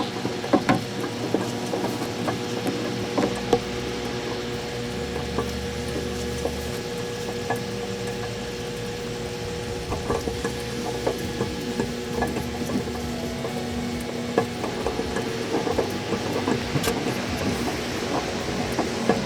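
Microwave oven running with a steady hum, with scattered small clicks and crackles throughout.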